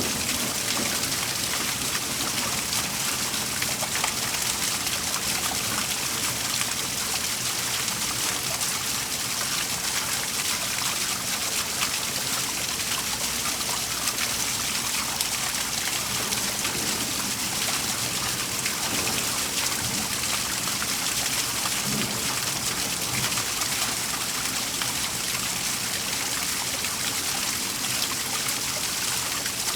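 Waterfall: water falling and splashing steadily in an even, unbroken rush with a hissing top.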